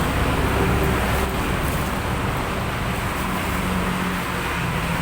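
Steady road traffic noise, with a vehicle engine running.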